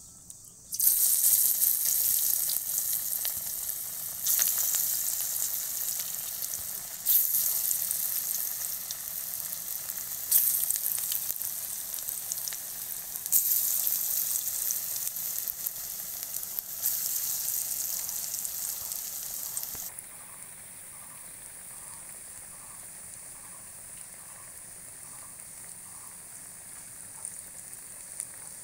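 Battered potato fritters (aloo laccha pakoras) dropped one by one into hot oil in a kadai: six sudden bursts of sizzling, one every three seconds or so, each flaring up as a fritter hits the oil and then easing off. From about two-thirds of the way in, a steadier, quieter sizzle as the full pan deep-fries.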